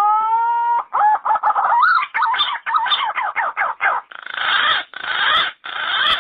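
Yellow-footed green pigeon calling: a long rising whistle, then a quick run of wavering whistled notes that turn rougher near the end before breaking off sharply.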